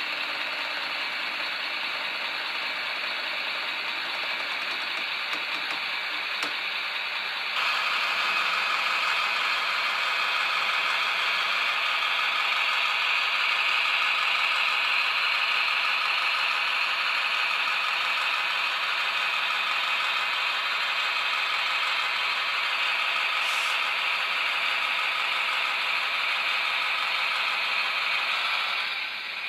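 Bémo MK45 model locomotive running, with its sound decoder playing engine sound through a small loudspeaker over the steady mechanical noise of the running gear. The sound grows louder about seven seconds in, holds steady, and drops off just before the end.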